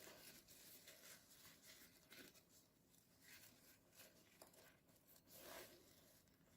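Near silence with a few faint rustles and handling noises, as the blower nozzle is fitted into the hose of a soft hooded dryer cap.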